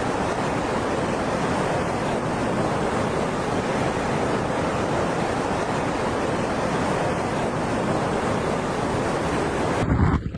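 Floodwater rushing, a steady loud wash of noise without pauses, cut off abruptly near the end.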